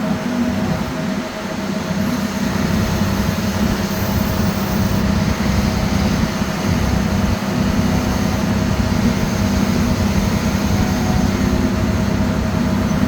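Diesel engine of a Cat 725C articulated haul truck running steadily, a continuous loud drone with no breaks.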